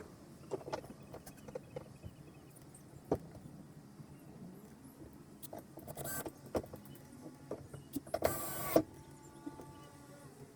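Workshop sounds: scattered light knocks and clicks, with two short whirring bursts of a small motor, the longer one about eight seconds in.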